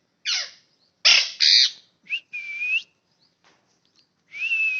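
Parrot calling: a falling screech, then two loud harsh squawks, then two longer whistled calls that hold a steady pitch, the last starting near the end.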